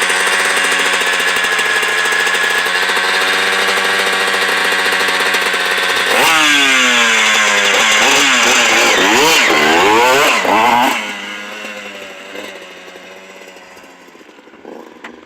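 Two-stroke 125 cc Honda CR125R dirt bike engine running at a steady low speed, then suddenly revved hard about six seconds in, its pitch rising and falling several times, before the sound fades out. The engine is not yet warmed up or properly adjusted, with a dirty carburettor and an exhaust silencer that has no packing in it.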